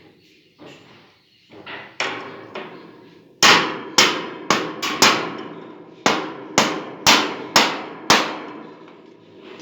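A hammer striking hard, about ten sharp blows coming roughly two a second, each ringing briefly. A few lighter knocks come before them.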